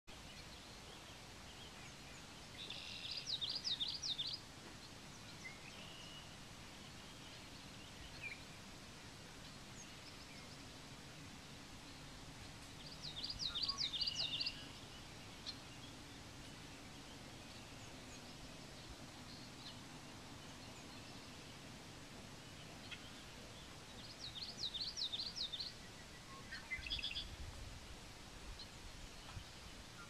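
A songbird singing the same short phrase of quick, high notes three times, about ten seconds apart, with a shorter call near the end, over a steady faint outdoor background hum.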